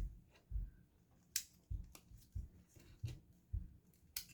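Plastic building-block pieces being handled and snapped together: two sharp clicks, about a second in and near the end, among a run of soft low knocks as pieces are picked up and set down.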